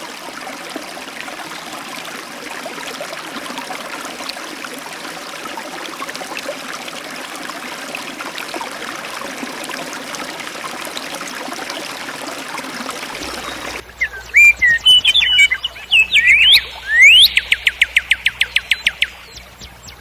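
Flowing stream water rushing steadily, cut off abruptly about two-thirds of the way through; then songbirds calling loudly, with sweeping chirps and a fast trill of about eight evenly spaced notes a second near the end.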